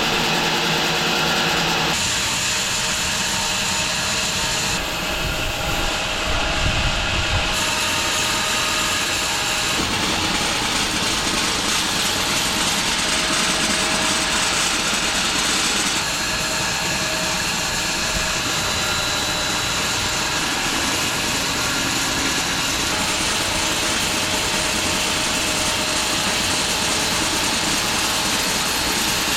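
Large home-built bandsaw sawmill running steadily, its blade sawing through a London plane log. The machine tone shifts abruptly a few times.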